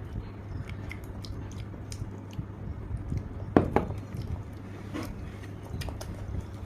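Close-up sounds of a person eating: chewing and small wet mouth clicks, with a sharper, louder crunch-like crackle about three and a half seconds in. A steady low hum runs underneath.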